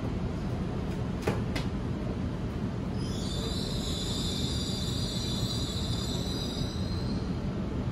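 Stopped electric double-deck suburban train with its doors open: a steady low rumble, two sharp clicks a little after a second in, then a high-pitched squeal lasting about four seconds from around three seconds in.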